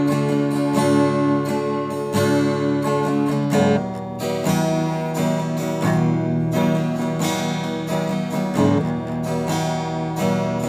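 Acoustic guitar strummed in a steady rhythm, chords ringing between strokes, with a chord change about four seconds in.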